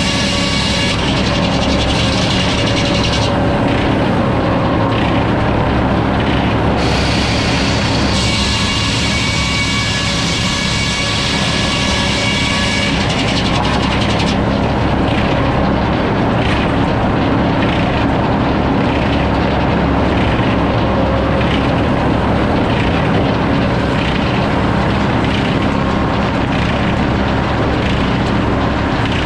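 Sawmill running and sawing a log, a steady engine hum under the noise of the blade in the wood. The bright cutting hiss is strong for the first half, breaking off once, then fades to mostly engine and machine noise from about halfway through.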